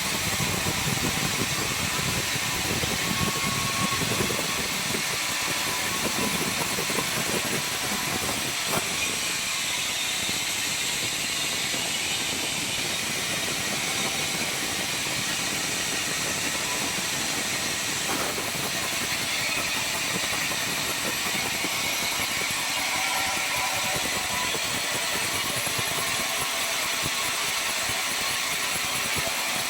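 Sawmill circular saw machine running steadily, a dense mechanical noise without a break.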